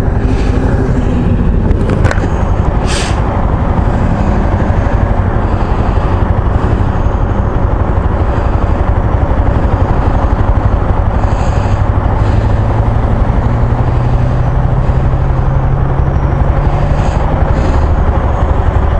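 Maxi-scooter riding at speed: heavy wind rush on a bare, uncased action-camera microphone over the scooter's engine drone, which rises slowly in pitch over the last several seconds.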